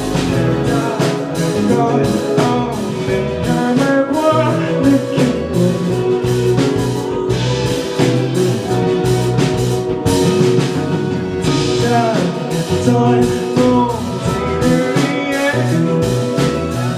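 Live band music in an instrumental passage of a pop-rock song, with a steady drum beat under sustained chords and melodic lines.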